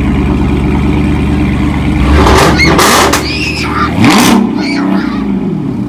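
Car engine idling steadily, revved up once about four seconds in. Loud high shouts break over it around the middle.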